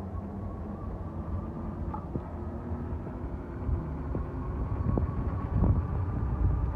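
Custom Sur-Ron-style electric bike under way, its motor giving a faint steady whine that creeps slightly up in pitch as it picks up speed. A low rumble of wind and road noise runs under it.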